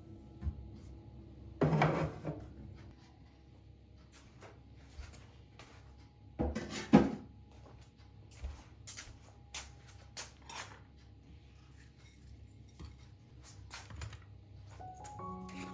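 Dishes and cutlery being handled in a kitchen: scattered clinks and knocks, with louder clattering about two seconds in and again around seven seconds.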